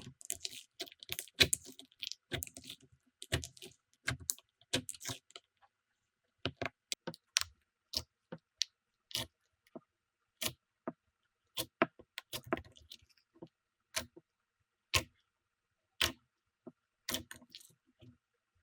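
Slime being pressed and worked by hand, giving crackling clicks: a dense run of crackles over the first five seconds or so, then separate sharp pops about once a second.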